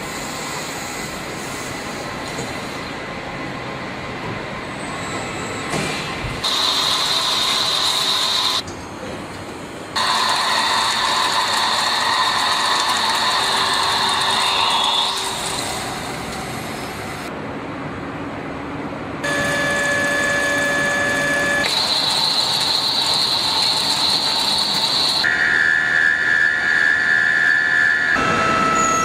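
CNC mill-turn machine cutting metal: a steady machining noise with high whining tones from the spindle and tool, changing pitch and character abruptly every few seconds.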